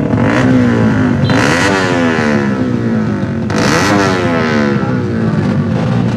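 Racing vehicle engine idling steadily and revved up twice, its pitch rising and falling each time.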